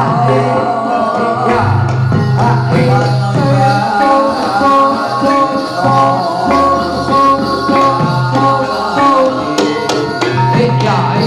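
Javanese jathilan accompaniment music: a wavering melodic line with a low drone, driven by drums and a jingling tambourine-like percussion.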